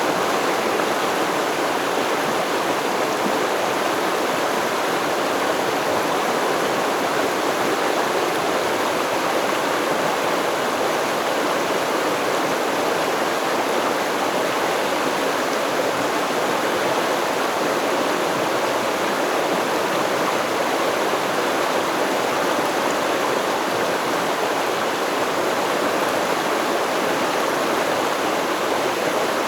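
A river stream flowing over rocks: steady rushing and babbling water with no change throughout.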